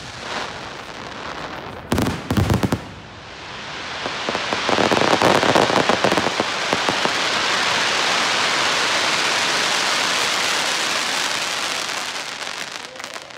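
Display firework shells bursting with a quick cluster of loud bangs about two seconds in, then a long dense crackling from glittering crackle stars. It swells, holds steady and fades out near the end.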